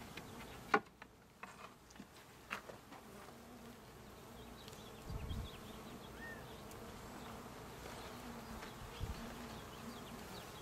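Honeybees buzzing around an open hive during a frame inspection, a steady hum. A few sharp clicks stand out in the first three seconds.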